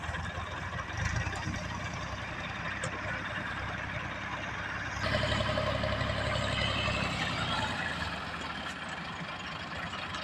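Tractor engine running, growing louder for a few seconds about halfway through, then easing back.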